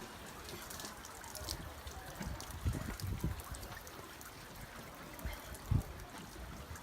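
Water trickling and washing along the hull of a sailing yacht under way, with a few short low thumps.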